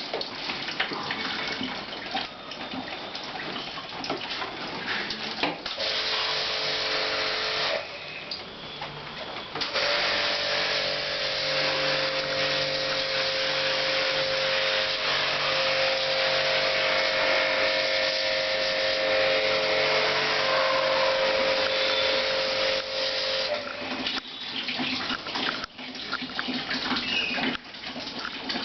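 Jet pump spraying water to wash out an air conditioner, with water splashing and running throughout. The pump's motor hum and the hiss of the spray come on twice: briefly at first, then steadily for about fourteen seconds before cutting off.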